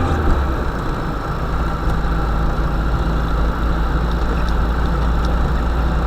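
UAZ-452 'Bukhanka' van engine running steadily at low revs, its pitch dropping slightly right at the start, with a few faint ticks and rattles over it.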